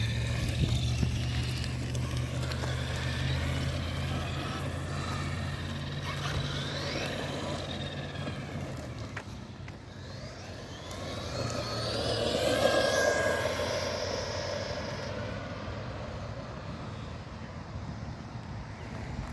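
Road vehicle noise: a steady low engine hum, then a vehicle passing that swells to its loudest about two-thirds of the way through and fades away.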